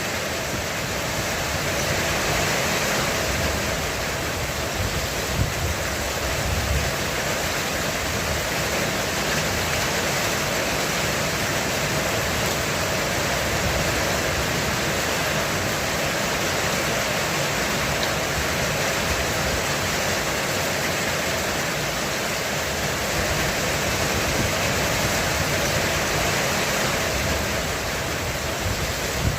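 Heavy rain falling steadily on a roof, an even, unbroken hiss of drops.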